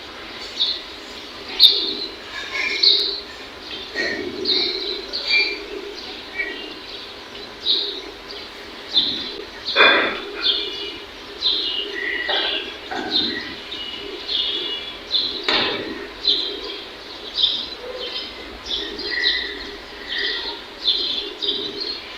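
Small birds chirping repeatedly, short high calls coming about one or two a second, over a steady background hum, with a couple of louder sudden sounds about ten and sixteen seconds in.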